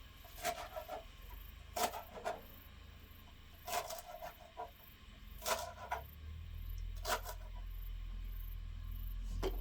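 A dull kitchen knife making scattered short knocks and scrapes as it cuts, about seven strokes a second or more apart. A low rumble rises from about six seconds in.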